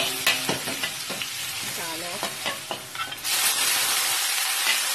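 Ginger and garlic sizzling in hot oil in a wok, with a metal spatula clacking and scraping against the pan. About three seconds in, the sizzle jumps suddenly much louder and steadier as blanched scallops go into the hot oil.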